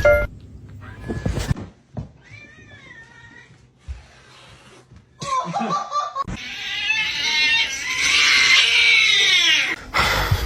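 Cat meowing across quick cuts: a short meow about two seconds in, then a long drawn-out yowl in the second half that drops in pitch as it ends.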